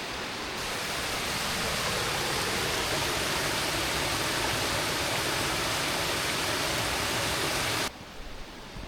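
Rushing water tumbling over rocks in a stream, a steady even rush that cuts off suddenly near the end.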